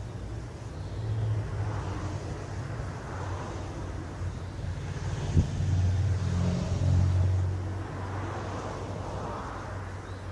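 Low vehicle engine rumble that swells twice, with a single sharp click about five seconds in.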